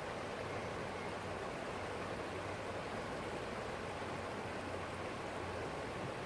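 A forest stream flowing: a steady, even rush of water.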